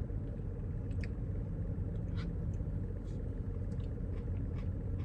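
Faint mouth sounds of someone chewing and swallowing a big mouthful of ice cream, a few small clicks, over a steady low rumble.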